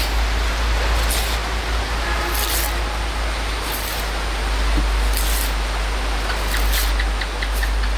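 Steady rain with wind rumbling on the microphone, and a few faint high chirps near the end.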